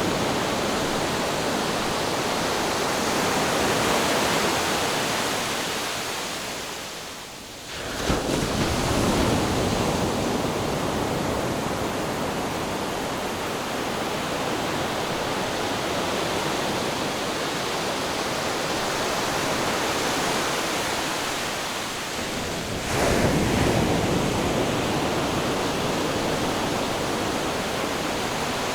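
Ocean surf: a continuous wash of breaking and receding waves. The sound dips briefly twice, and each dip is followed by a sudden surge, about 8 and 23 seconds in.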